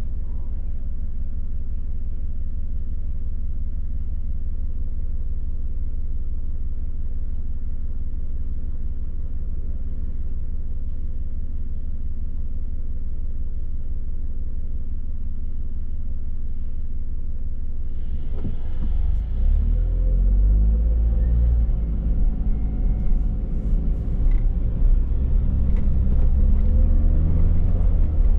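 Car engine and road noise as a steady low rumble; about eighteen seconds in it grows louder, with an engine note rising and shifting as the car accelerates.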